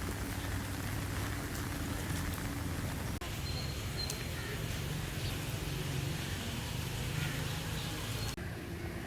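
Heavy rain falling steadily, with a low hum underneath. The sound changes abruptly twice, about three seconds in and near the end.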